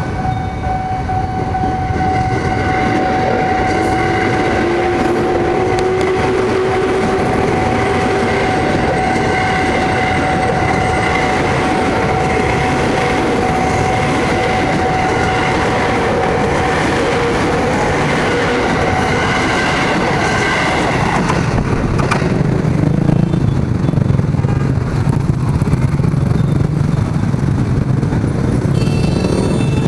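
KRL Commuterline electric commuter train passing close by at a level crossing, its motor whine rising in pitch over the running noise of the wheels, with a steady high tone throughout. About two-thirds of the way through, the sound changes abruptly to a lower, noisier rumble.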